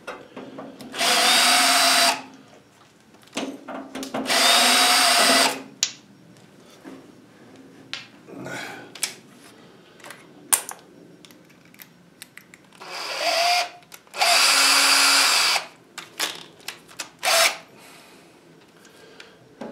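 Electric drill drilling out the rivets of a stainless-steel range hood, run in short bursts of about a second each. Its pitch rises briefly at the start of each burst. Small clicks and knocks are heard between the bursts.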